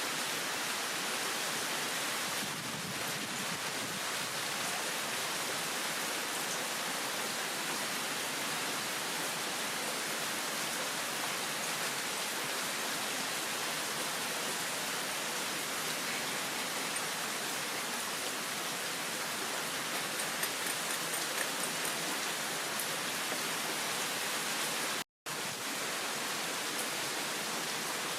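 Heavy rain in a downpour: a steady, even hiss of falling rain. The sound cuts out for an instant near the end.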